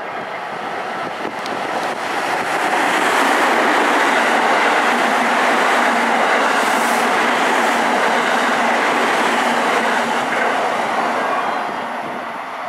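Electric train passing through a station at speed: a steady rush and rumble of wheels on rail. It builds over the first two seconds, holds loud, and fades near the end.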